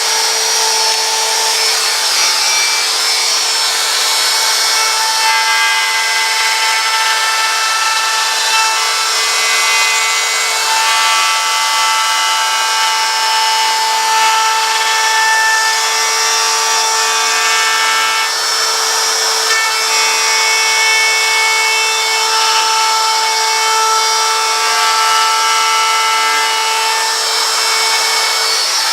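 Router with a V-groove bit running steadily and cutting a deep, wide groove into wood: a steady motor whine over the hiss of the cut.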